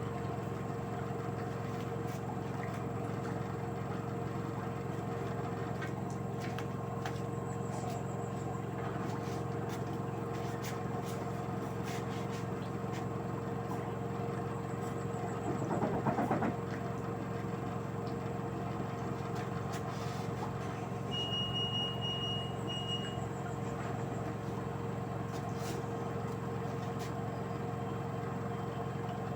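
LG direct-drive washing machine running with a steady motor hum and an even whine, swelling briefly about halfway through. A short high tone sounds twice a little later.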